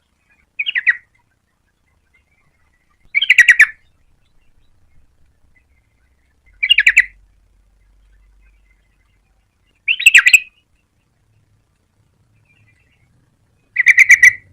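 Yellow-vented bulbul calling: five short, bubbly phrases of rapid notes, one every three to four seconds.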